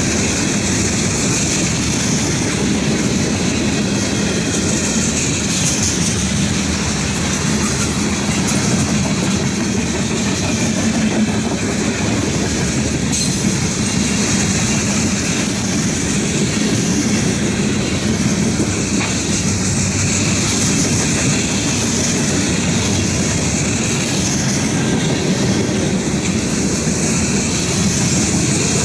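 Cars of a Norfolk Southern freight train rolling past steadily: a continuous rumble of steel wheels on rail with clickety-clack, and a steady high ring above it.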